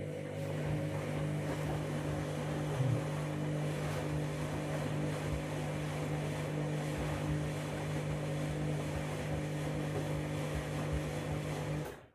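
Candy washing machine running mid-cycle: a steady hum over a rushing noise, which cuts off abruptly near the end.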